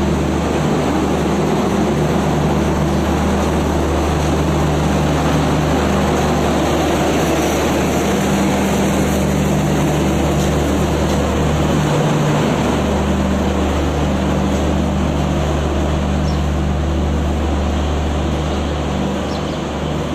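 An Indian express train moving slowly past along the platform, with the steady hum of the diesel generator in its luggage brake and generator car running. The sound stays steady and eases slightly near the end.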